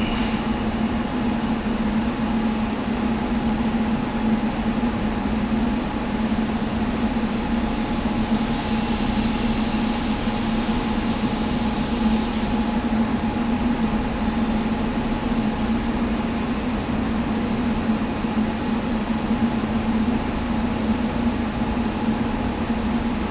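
Train running at a station platform: a steady hum with a constant low tone, and a brief high whine from about eight to twelve seconds in.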